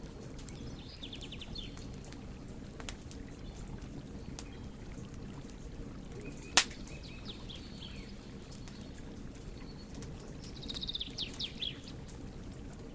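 Wood fire burning with a low steady rush and scattered sharp crackles, one loud pop about six and a half seconds in. Birds chirp in quick runs of high notes, most strongly near the end.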